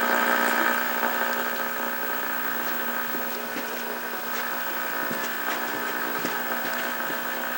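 Steady buzz from the speaker of a 1963 Philco Courier portable TV, coming on suddenly and holding even, with a few faint clicks over it. The set's audio is garbled by a strong signal, which the owner puts down to a sound IF stage that needs aligning.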